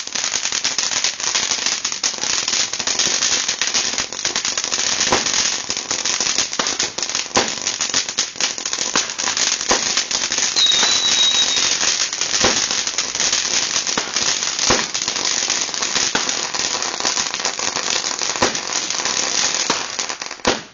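Firecrackers going off in a dense, continuous crackle, with louder single bangs scattered through it and a brief high whistle about ten seconds in; it stops suddenly near the end.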